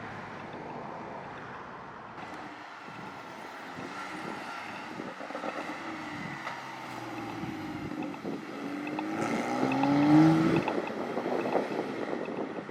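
Sports car engine accelerating past with rising revs, building to its loudest about ten seconds in, then dropping away.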